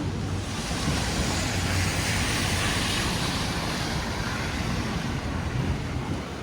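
A vehicle passing on a city street, its tyre hiss swelling and then fading, over a steady low rumble of traffic.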